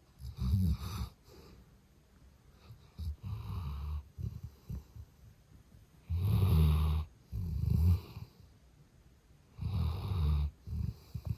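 Labrador retriever snoring loudly in its sleep: about six snoring breaths, several in quick in-and-out pairs, with short quiet gaps between them.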